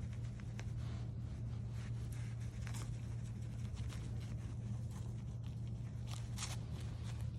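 A steady low hum with a few brief rustling scratches, one about three seconds in and two close together near the end.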